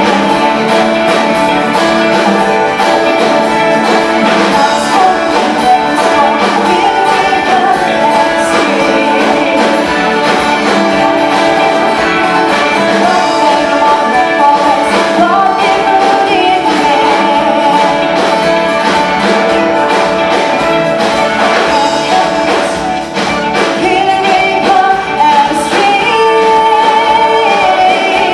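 A song performed live: singing over instrumental accompaniment, steady and loud, with a brief dip in level a little past the middle.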